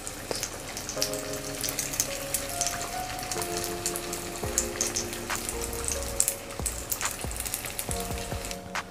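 Spring rolls deep-frying in hot oil in a pan: a steady sizzle dotted with many sharp crackles and pops. Soft background music with held notes plays underneath.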